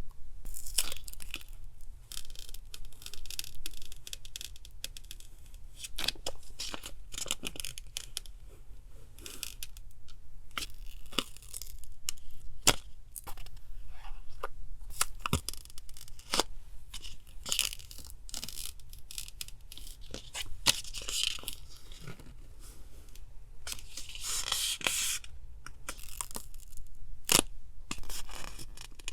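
Paper being torn and handled: repeated stretches of tearing and rustling, broken by sharp taps and clicks.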